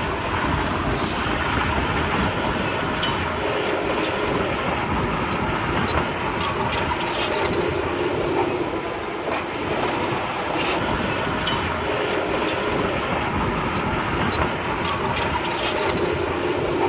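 Komatsu D31P crawler bulldozer working: its diesel engine running steadily while its steel tracks clank irregularly.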